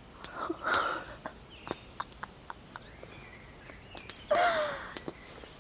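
Campfire crackling with scattered sharp pops. A louder, rougher sound comes just under a second in and another about four seconds in.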